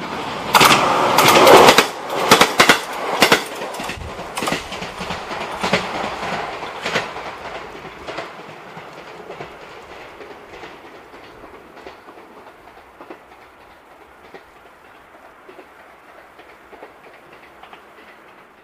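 A train passing close by: a loud rush with its wheels knocking over the rail joints in quick clatters, loud enough in the first few seconds to overload the recording. The clatter then thins out and the sound fades steadily as the train moves away.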